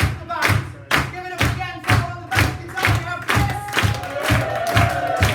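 Band music with a steady drum beat of about two kick-drum thumps a second and sharp drum hits between them, with a held, bending note near the end.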